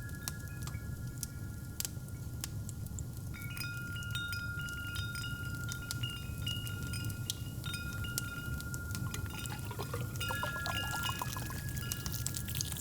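Metal wind chimes ringing over a steady low fireplace rumble with scattered crackles. From about nine seconds in, a hot drink is poured into a cup, its pitch rising as the cup fills.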